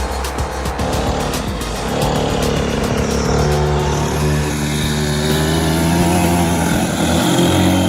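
Small off-road engines of a 50cc dirt bike and a 125cc ATV running under throttle. The engine note climbs steadily in pitch from about three seconds in as the machines accelerate.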